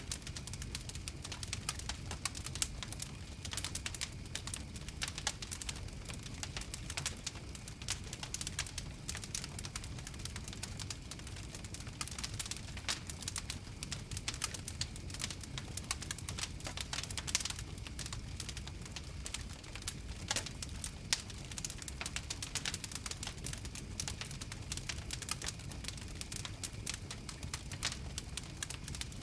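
Wood fire crackling: dense, irregular sharp pops and snaps, a few louder than the rest, over a steady low rumble of flames.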